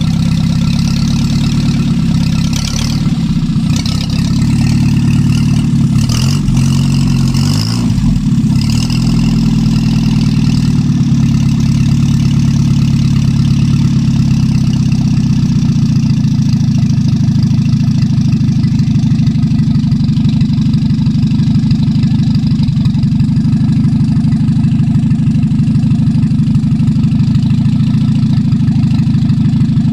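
A freshly rebuilt Morris Minor 948cc A-series four-cylinder engine running at idle. Its speed wavers unevenly during the first several seconds, then it settles into a steady idle.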